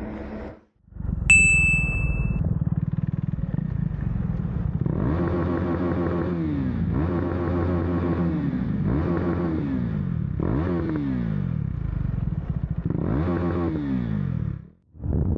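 KTM Duke 390's single-cylinder engine revved five times in quick throttle blips while the bike rolls slowly, each rev climbing fast and then dying away. A sharp ping with a brief ringing tone sounds about a second in.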